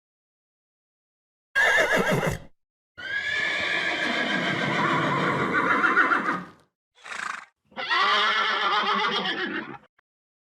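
Horse whinnying: a short burst, then a long wavering whinny of about three and a half seconds, a brief sound, and a second whinny of about two seconds.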